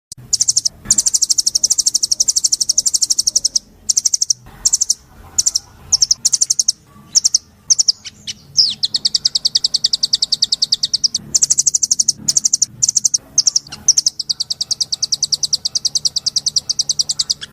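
A songbird singing long, very fast trills of evenly repeated high notes, broken by short bursts and brief pauses near the middle.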